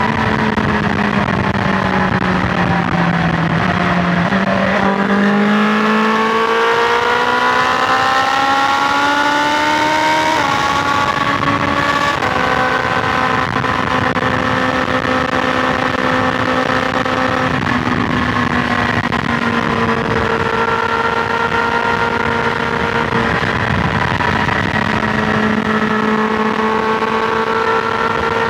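BMW S1000XR motorcycle's inline-four engine on the highway: the engine note falls for the first few seconds, then climbs steadily as it accelerates, drops at a gear change about ten seconds in, and settles to a steady cruise. Wind rush runs underneath.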